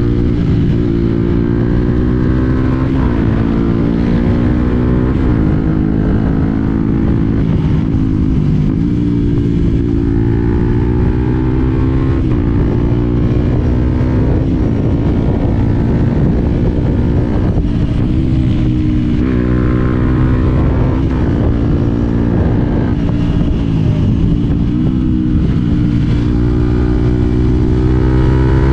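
Yamaha WR 125 X's single-cylinder four-stroke engine running under way. Its pitch climbs steadily and then drops back several times, as the bike accelerates and shifts up through the gears.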